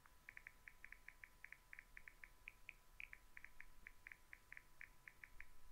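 Faint rapid chirping of a bird, about five short chirps a second, over a faint steady electrical whine.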